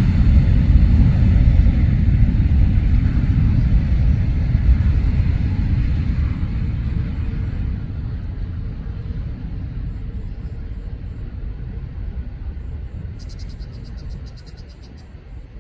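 Boeing 777-300's Rolls-Royce jet engines rumbling as the airliner climbs away after takeoff, the low roar fading steadily. Near the end, an insect trills briefly in a short run of high, quick chirps.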